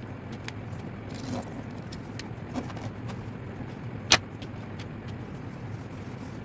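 Sheet of paper being handled and creased: a few sharp crackles, the loudest about four seconds in, over a steady low hum.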